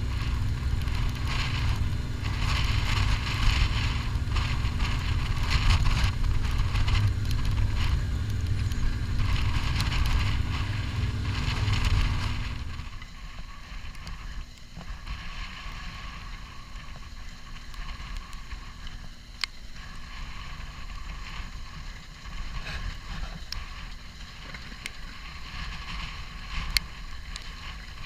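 Fendt 720 tractor's diesel engine running steadily while ploughing. About twelve seconds in it drops sharply in level and carries on fainter.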